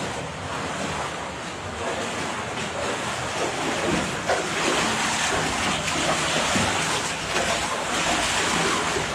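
Rushing water of an underground cave stream, a steady hiss that gets a little louder about four seconds in.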